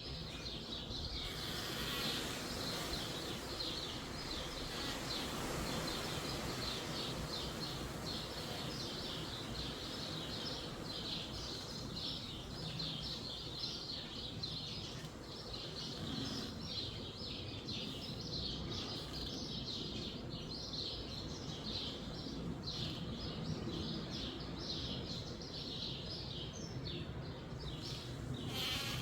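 Many small birds chirping in rapid, continuous chatter over a steady low rumble of wind.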